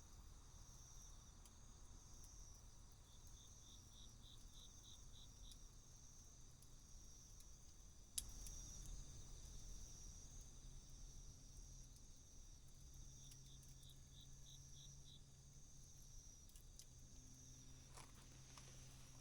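Faint night insects calling: a steady high trill throughout, and twice a run of pulsed chirps at about three a second, one a few seconds in and one about halfway through. A single sharp click about 8 seconds in.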